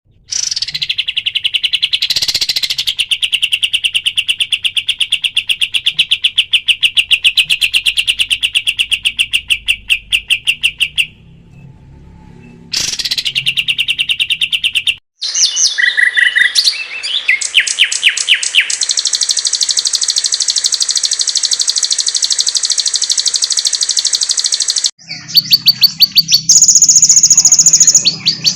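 Songbird masteran (training recording for cage birds): long, rapid chattering trills that start and stop abruptly as spliced segments. A dense trill runs for about ten seconds, breaks off briefly, then a higher, faster trill takes over. Near the end another trill comes in over a low hum.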